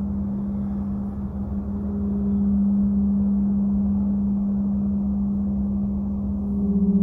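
Deep, steady sound-healing drone held on one low note, with a rumble beneath it, from the monochord and gong overtones of a sleep track. It swells a little about two seconds in.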